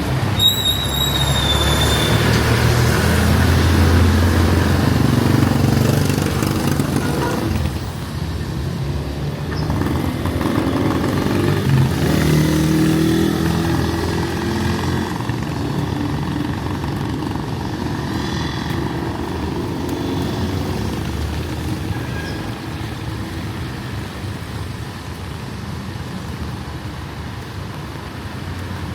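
Street traffic: a motor vehicle's engine rumbles past, loudest in the first several seconds and then easing. A steady hiss of traffic and rain runs underneath. A brief high-pitched squeal sounds near the start.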